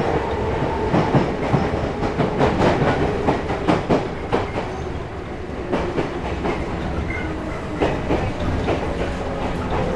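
Running sound inside a Chichibu Railway 5000 series electric car (ex-Toei Mita Line 6000 series, resistance control), heard from on board. The wheels click over rail joints amid a steady rumble, with a traction motor hum that slides slowly lower in pitch.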